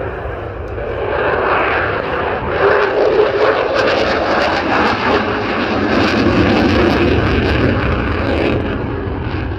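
Eurofighter Typhoon's twin turbofan jet engines at display power as it flies past, a loud rushing noise that builds from about a second in and carries a rapid crackle through the middle.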